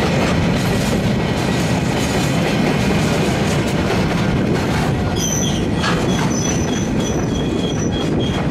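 Freight train of empty flat wagons rolling past close by: a steady rumble and rattle of wheels over the rails. About five seconds in, a broken high-pitched squeal from the wheels comes in.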